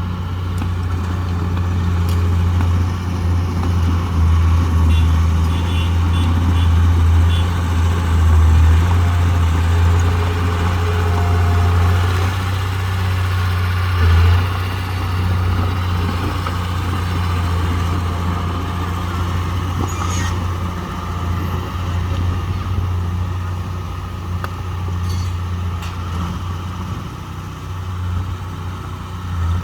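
Heavy earthmoving machine's diesel engine running steadily with a deep hum, with a few short metallic knocks.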